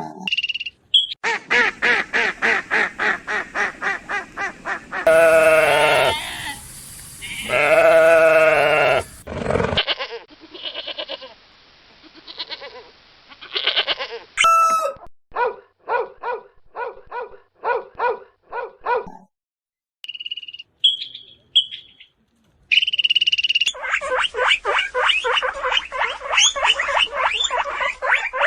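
A run of farm animal calls in several short clips. A fast series of short calls is followed by two long bleats about five and eight seconds in, then more runs of short repeated calls and a few high chirps.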